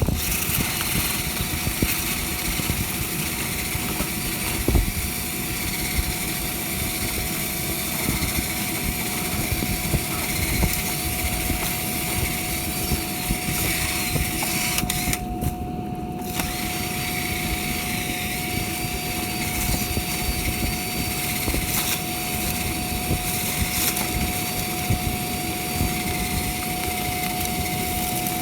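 A motor running steadily, with a constant whine over a broad rushing hiss.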